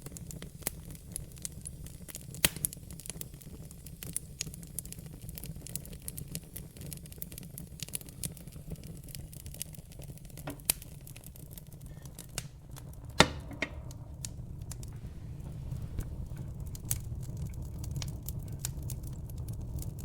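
Logs burning in a fireplace: irregular sharp crackles and pops over a steady low rumble, with the loudest pop about 13 seconds in.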